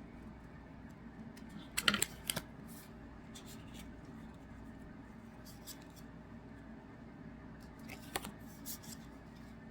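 Trading card packs and cards being handled: short crinkles and clicks of foil wrappers and card stock, loudest in a quick cluster about two seconds in, with a few smaller ones later.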